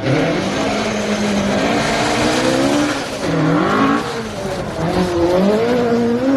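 Rally car engine revving hard as it accelerates, its pitch climbing and falling back twice at gear changes before climbing again.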